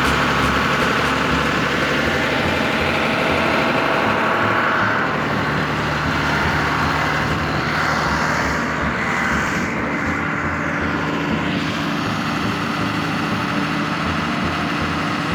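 Steady engine-like running sound, like a vehicle motor held at a constant speed.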